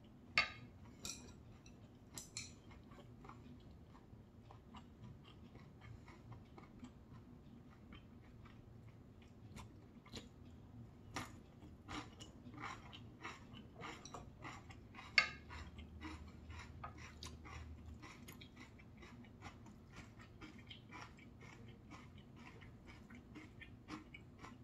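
Faint mouth sounds of a person chewing soft quinoa rice with soybean paste and tofu, with a run of small wet clicks and crackles. Sharper clicks stand out, the loudest near the start and about fifteen seconds in.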